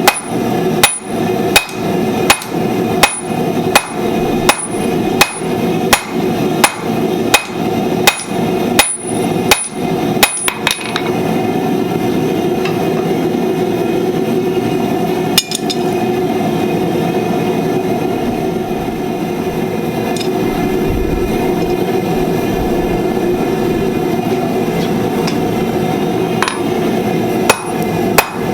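Blacksmith's hammer striking hot steel on an anvil while forging flat-nib tongs, about two blows a second with a ringing clang on each. The hammering stops about eleven seconds in, leaving a steady rushing noise with one lone strike. Hammering starts again near the end.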